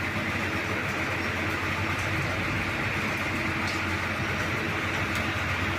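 Steady vehicle road noise: a moving vehicle running with an even low engine drone under a constant rush of tyre and wind noise.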